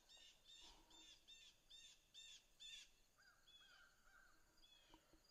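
Birds calling faintly: a quick run of about seven repeated, arching calls, roughly two to three a second, then a few lower calls.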